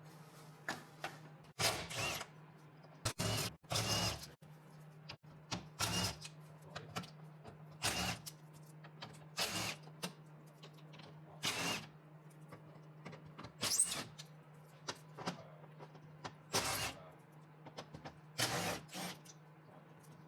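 About a dozen short, irregularly spaced bursts of tool noise over a steady low hum.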